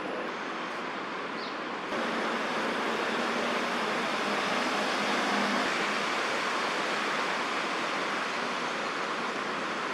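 Steady outdoor background noise, an even hiss with no distinct events, that steps up in level about two seconds in.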